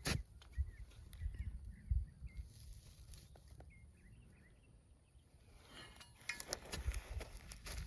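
A sharp click at the start, then a few faint, short high bird chirps over a low rumble; about six seconds in, rustling and crunching steps on the ground begin.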